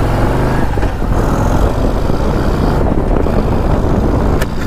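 Harley-Davidson CVO Road Glide ST's V-twin accelerating hard from a launch, its engine note climbing, mixed with a loud rushing noise as speed builds.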